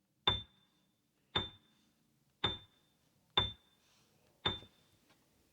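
Five short, high clinks with a brief ring, evenly spaced about a second apart, marking the pause for the learner's turn.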